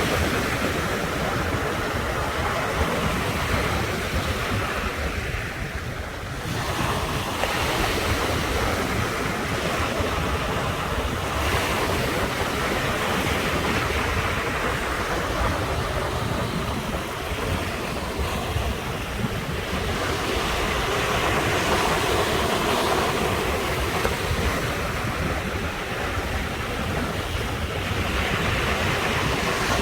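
Ocean surf washing continuously onto the shore, swelling and easing, with a low rumble of wind buffeting the microphone.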